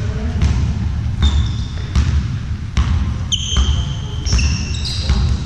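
Basketball bouncing on a hard indoor court, a dull impact every half second to a second. From about the middle, sneakers squeak on the floor several times.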